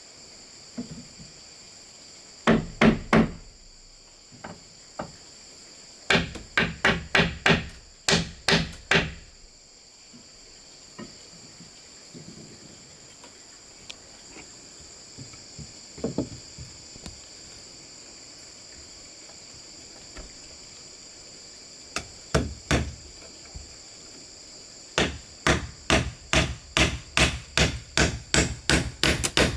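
Sharp blows striking wood in short bursts, then a steady run of about four blows a second near the end, over a constant high-pitched insect drone.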